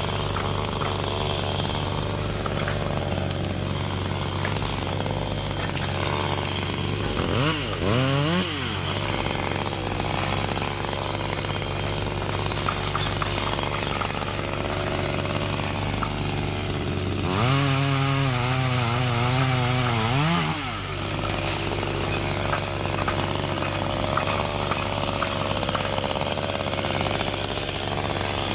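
Chainsaw running steadily, revved up briefly about eight seconds in and held at higher speed for about three seconds later on before dropping back.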